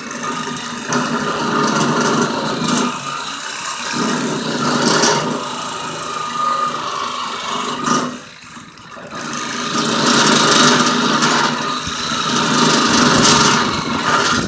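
Reciprocating saw (Sawzall) cutting through the steel frame of a car dolly trailer, its blade bent from the work. The cutting eases off briefly about eight seconds in, then picks up again and stops at the very end.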